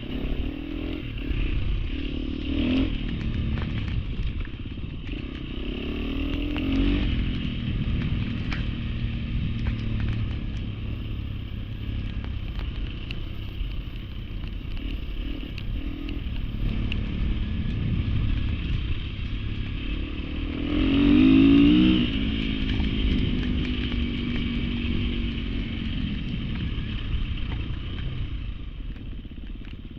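Off-road trail motorcycle engine running continuously, revving up and down several times, with the loudest rev about two-thirds of the way through.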